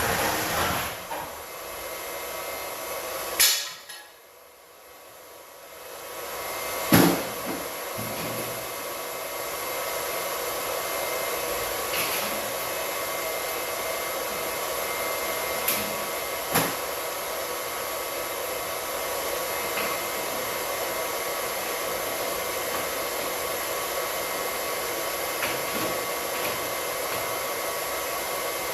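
Small electric pump running steadily while it drains an old water heater tank. There is a sharp knock about three and a half seconds in, the running sound dips and builds back up, another knock comes about seven seconds in, and then it runs evenly with a few light clicks.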